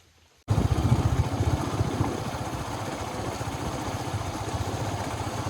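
Motorcycle engine running with a rapid, even pulsing, starting abruptly about half a second in, loudest at first and then steady.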